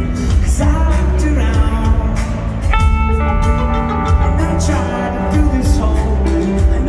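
A rock band playing live: sustained, bending melody lines over bass and drums.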